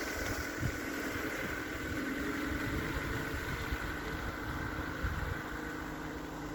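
Lada Niva's engine running, a steady hum over a low rumble.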